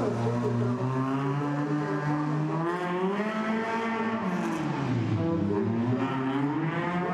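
A rally hatchback's engine running under load at a steady pitch for about the first two and a half seconds. The pitch then climbs, drops back about five seconds in, and climbs again near the end as the car accelerates, eases off and accelerates again.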